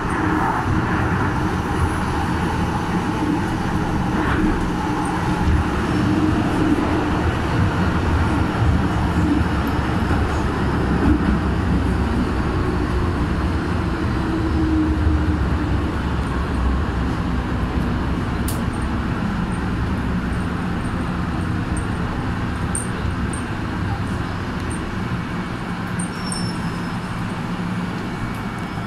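MTR M-Train electric multiple unit heard from inside the car: a steady rumble of the motors and wheels on the track, easing slightly toward the end as it runs into a station.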